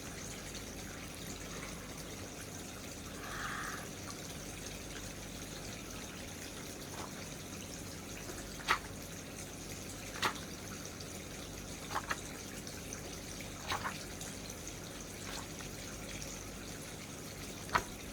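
Steady low background hiss with a handful of short, light clicks spaced a second or two apart.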